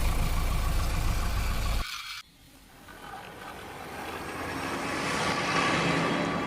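Vehicle engine running with a steady low rumble that cuts off abruptly about two seconds in, followed by vehicle noise that gradually builds up again.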